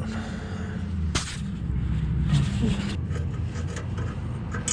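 Sharp metallic clicks from a loose, rusty exhaust flange joint as the pipe is worked up and down, one strong click about a second in and another near three seconds, over a steady low rumble. The flange's spring bolts are rusted and cannot be tightened further, and the joint has been leaking exhaust gas.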